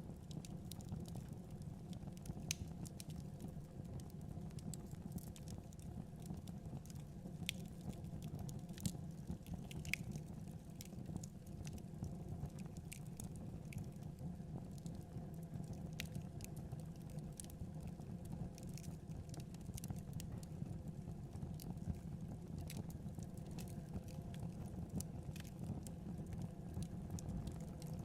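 Wood fire burning in a fireplace: a steady low rumble of the flames with irregular small crackles and pops throughout.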